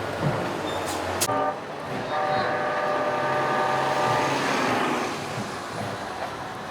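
Streetcar horn: a brief toot about a second in, then one long steady blast of about three seconds.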